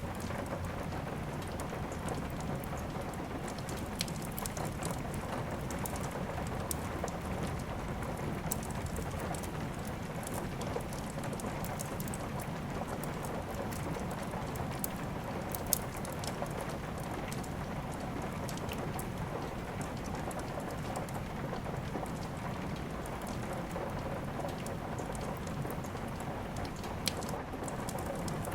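Steady rain with a wood fire crackling over it: scattered sharp crackles and pops, a louder pop about halfway through and another near the end.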